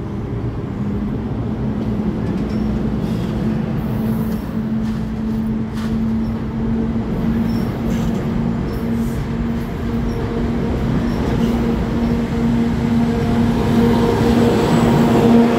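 NJ Transit Bombardier bilevel commuter train rolling past the platform as it leaves the station: steady wheel and rail noise with a steady hum and a few clicks. It grows louder near the end as the locomotive at the rear of the train passes close by.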